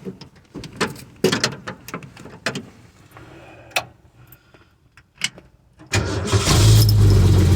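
Several separate clicks and knocks, then about six seconds in the 1966 Ford Bronco's one-barrel Ford 200 inline-six fires on a cold start and keeps running steadily.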